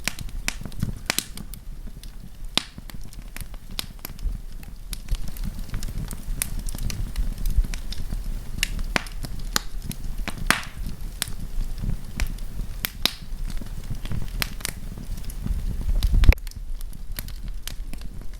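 Wood campfire crackling, with many sharp pops and snaps scattered irregularly over a low rumble. The rumble swells and then drops away suddenly about sixteen seconds in.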